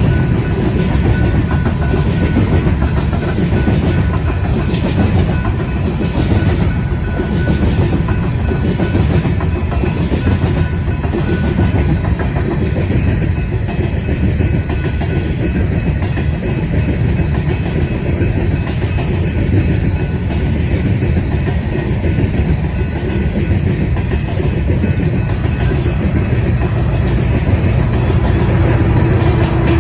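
Cars of a BNSF coal train rolling steadily past a crossing: a loud, continuous rumble of wheels on rail.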